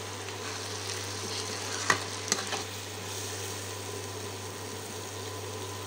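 Shredded potato and egg sizzling in oil in a frying pan while a metal spatula stirs it, with a couple of sharp clicks of the spatula against the pan about two seconds in. A steady low hum runs underneath.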